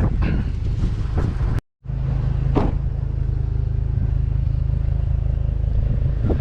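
Pickup truck driving, a steady low engine and road rumble, with a few light knocks. The sound cuts out completely for a moment about a second and a half in, then the rumble resumes.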